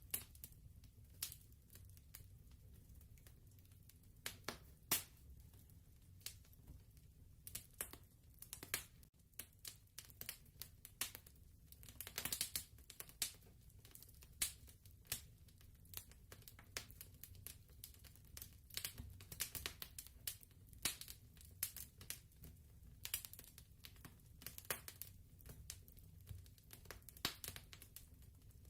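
Fireplace crackling: irregular sharp pops and snaps, sometimes in quick clusters, over a low steady rumble.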